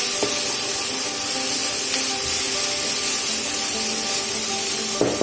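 Onions, garlic and bell peppers sizzling steadily in hot oil in a pan over high heat.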